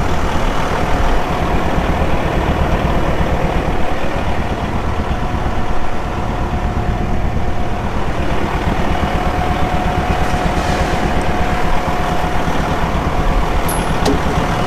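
Dense, steady clatter and rumble of a chipper's spinning flail chains, heard from inside the flail drum with the machine's engine running, the chains battering everything inside.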